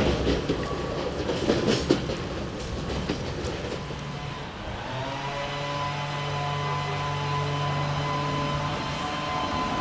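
Stadler GTW 2/6 diesel railcar on metre-gauge track: some knocks and clatter in the first two seconds, then from about five seconds in a steady engine drone made of several held tones.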